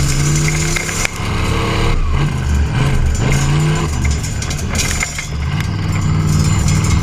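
Classic car engine accelerating hard up a hill climb course, the revs climbing several times with short breaks at the gear changes, then holding steadier near the end.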